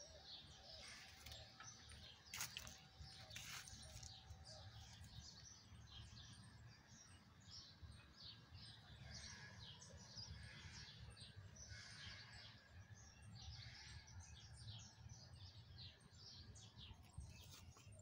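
Many birds chirping faintly in short, high calls, over a low rumble. Two sharp clicks come about two and a half and three and a half seconds in.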